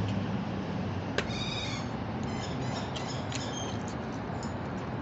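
A bird's run of short, high calls starting just after a sharp click about a second in, over a steady background hum.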